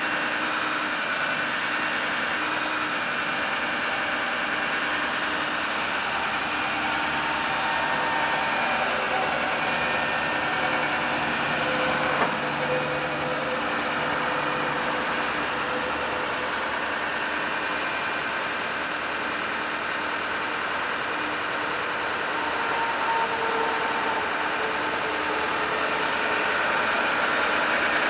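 Ford F550 bucket truck's engine running steadily at idle with the PTO engaged, powering the hydraulics while the Altec AT37G boom is flown. A short click about twelve seconds in.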